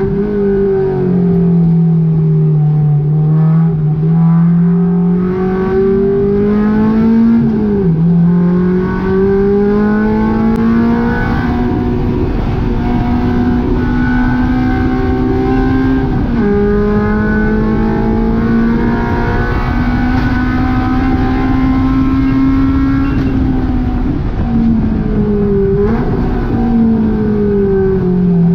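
Honda K20 inline-four engine in a VW GTI running hard on track. Its pitch climbs slowly through each gear and drops sharply at upshifts about eight and sixteen seconds in, then dips twice in quick succession near the end.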